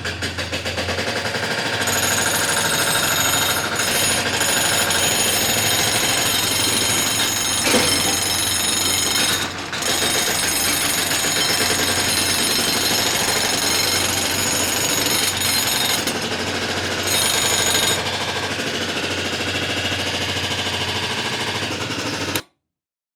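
A small machine giving a steady, rapid mechanical rattle that cuts off suddenly near the end.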